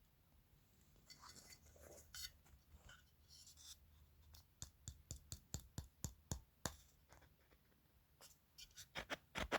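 Faint scratching followed by a run of light clicks, about three a second, then a quicker cluster of clicks near the end: small handling noises from working on the parts of a torn-down subwoofer.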